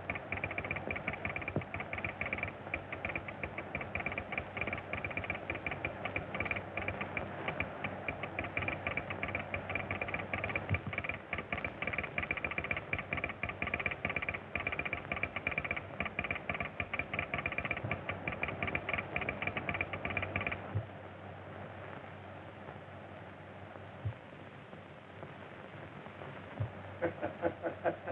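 Steam train running at speed, a fast, even clatter of strokes with a steady tone above it. About two-thirds of the way through it falls away to a quieter rumble, and the rapid strokes pick up again near the end.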